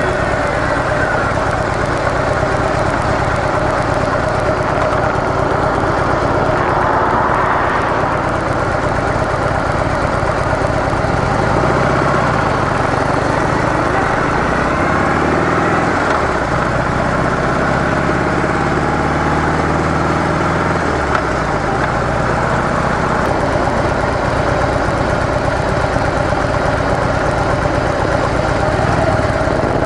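Harley-Davidson CVO Softail Deluxe's air-cooled Twin Cam 110 V-twin running through its stock muffler as the bike is ridden, its pitch rising and falling for several seconds in the middle with the throttle and speed changes.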